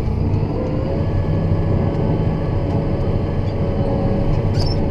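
John Deere 7930 tractor's six-cylinder diesel engine running steadily, with a steady whine coming in about half a second in.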